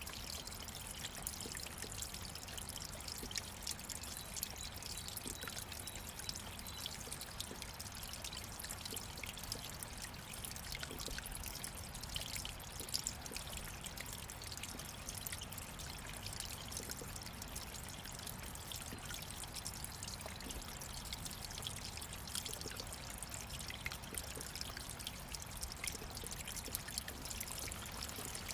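Running water: a steady flowing rush with many small splashes and trickles throughout.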